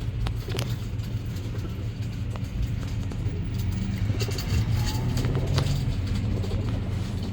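Steady low rumble with a few light clicks over it.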